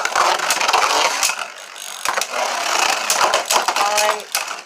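3D-printed Beyblade tops spinning and colliding in a plastic stadium: a busy mechanical clatter full of sharp clicks and scraping.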